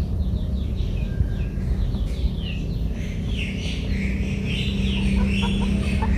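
Birds chirping: many short, high, falling chirps, busier from about halfway, over a steady low rumble. A steady low hum joins about two-thirds of the way in.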